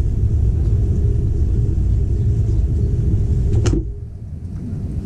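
Steady low rumble of an intercity train running, heard from inside the carriage. About three and a half seconds in, a door shuts with a sharp clack and the rumble drops markedly.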